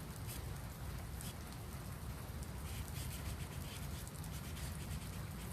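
Faint scratchy strokes of a marker drawing on a paper plate, coming in short scattered strokes over a steady low rumble.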